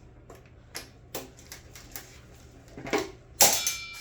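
Hand tools and bolts clicking and clattering against metal while oil pan bolts are worked loose, then a louder metallic clang about three and a half seconds in that rings on briefly.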